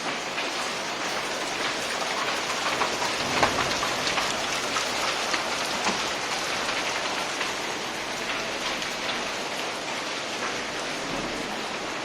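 Heavy rain falling steadily, a dense hiss full of individual drop hits, with one sharper splash about three and a half seconds in.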